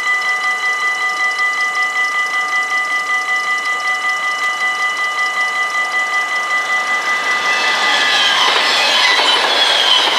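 Level-crossing warning bells ringing in a fast, even pulse. About eight seconds in, a passing train rises over them, its wheels clattering on the rails and squealing.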